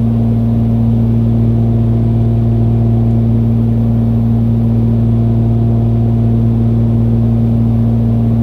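Twin piston engines of a Cessna 414A in flight, a loud steady drone with a low hum and a second, higher hum, heard inside the cabin.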